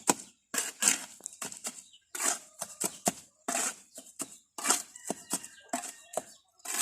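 Gritty scraping strokes of a sand-and-cement mix being stirred by hand, about two strokes a second.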